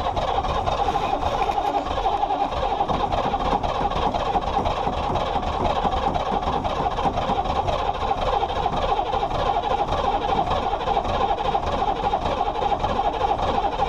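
K30 truck's 6.2-litre diesel V8 running steadily just after catching on a cold start, with a fast, rough clatter. The exhaust leaks in many places, as the owner says.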